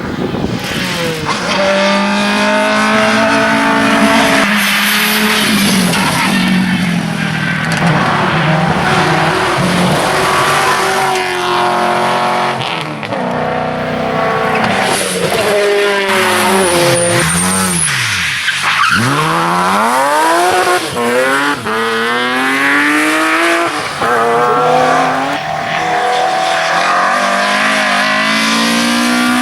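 Rally cars driven hard on a stage, engines revving up and falling back repeatedly through gear changes. About two-thirds of the way through the revs drop sharply and climb again, as under braking into a corner and accelerating out.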